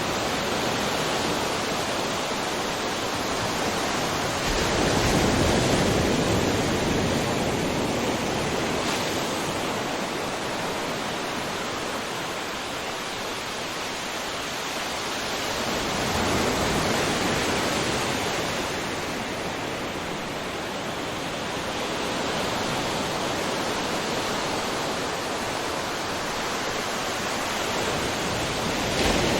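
Ocean surf: a continuous wash of breaking waves that swells to a louder crash about every eleven or twelve seconds, three times.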